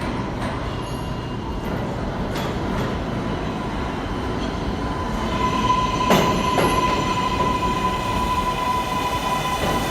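New York City Subway train running through the station with a steady rumble along the track. About halfway through, a steady high-pitched tone joins in, and there are two sharp knocks a little later.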